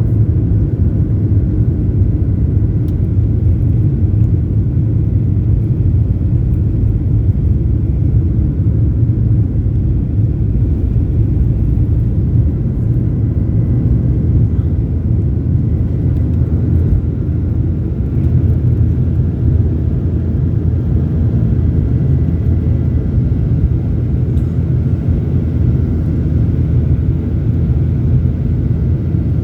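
Airliner engines at takeoff power heard from inside the cabin: a loud, steady low rumble, with a faint steady high whine over it from about halfway through.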